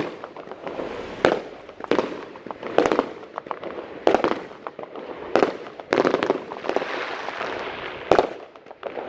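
Fireworks going off: a string of sharp bangs roughly once a second, with crackling between them.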